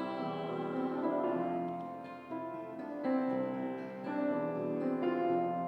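Live band music, an instrumental passage between sung lines: held chords changing every second or so, with no singing.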